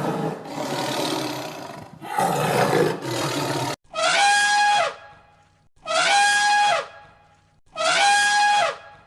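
Animal calls: two rough, growling roars, then three matching calls of about a second each, evenly spaced, every one holding a single steady pitch.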